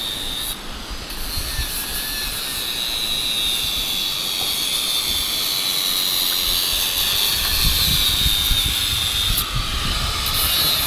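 Handheld power grinder running steadily under load as a worker cuts or sands at a building site. It makes a hissing noise with a high whine that sags a little partway through and rises again near the end.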